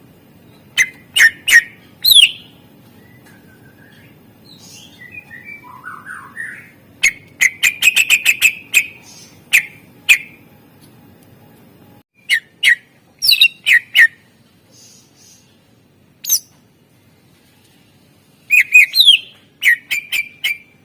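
Green leafbird (cucak ijo) singing loud, sharp whistled notes and quick runs of chattering notes in bursts separated by short pauses, with a soft warble about five seconds in.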